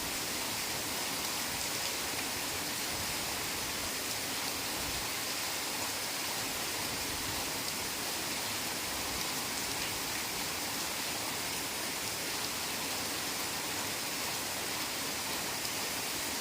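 Heavy rain falling steadily in a forest, a dense even hiss with no separate drops standing out.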